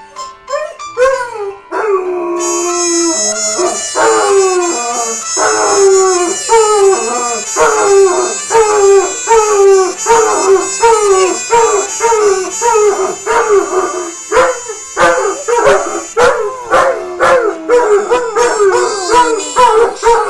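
Dog howling along to music in a long run of short calls, each falling in pitch, about one or two a second.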